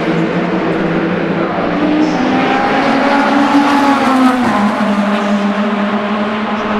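Endurance race car engines running at speed past the trackside microphone, a steady engine note that rises slightly in pitch and then drops about four seconds in.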